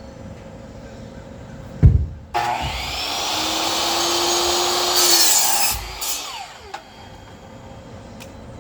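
A heavy thump, then an electric power saw cuts through lumber for about three and a half seconds, louder and harsher near the end of the cut, and its motor winds down.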